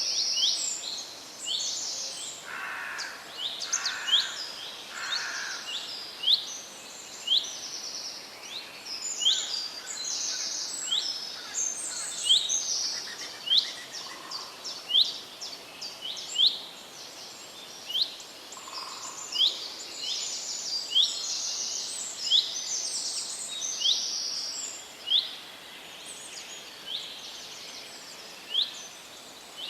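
Several birds singing: short upward-sweeping chirps repeated about once a second, with buzzier high notes between them and three lower calls a few seconds in.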